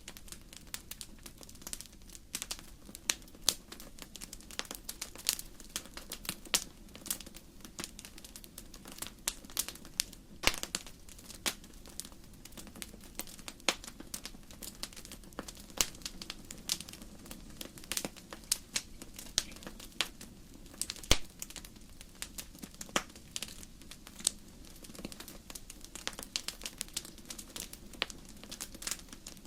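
Burning firewood crackling in a fireplace: irregular sharp pops and snaps, several a second, some louder than others, over the low steady rush of the flames.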